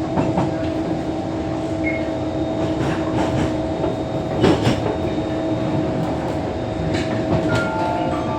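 Kawasaki C151 metro train running, heard from inside the carriage: a steady whine from its permanent-magnet traction motors over wheel and track rumble, with a sharp clack about four and a half seconds in. Near the end an onboard chime of stepped notes begins.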